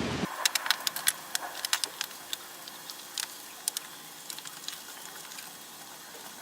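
Irregular sharp light clicks and taps, about ten in quick succession in the first two seconds, then scattered ones over a quiet background.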